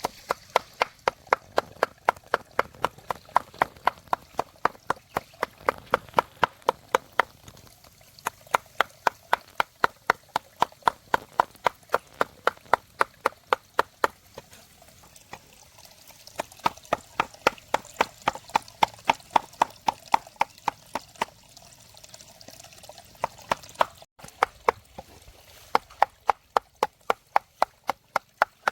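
Rapid chopping with a knife on a cutting board, about three strokes a second in long runs with brief pauses between them.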